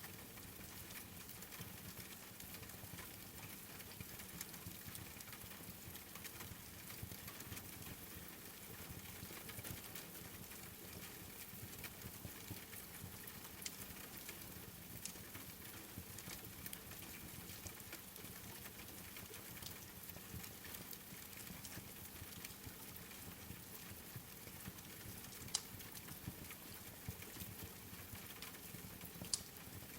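Steady rain with a wood fire crackling, small crackles throughout and two sharper pops near the end.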